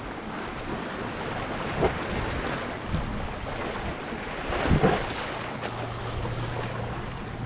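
Wind buffeting the microphone over the steady wash of sea surf, with a couple of brief thumps and a low steady hum coming in a little past the middle.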